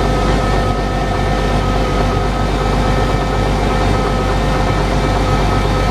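John Deere 8770 tractor's big six-cylinder diesel engine running at a steady idle just after a hard cold start, warming up.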